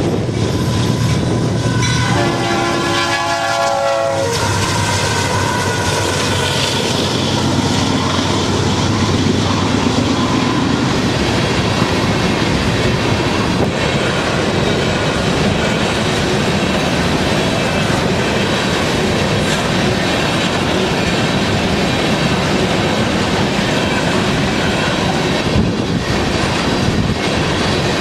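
A long freight train of hopper cars rolling past, its steel wheels rumbling and clattering steadily over the rails. A train horn sounds once, a chord of several tones held for about two seconds, a couple of seconds in.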